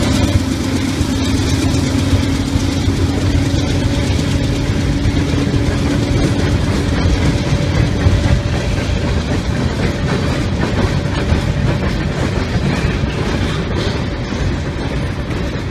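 GE C40-9W (Dash 9) diesel freight locomotives running past with a steady drone that fades out about eight seconds in. Loaded freight boxcars then rumble by on the rails.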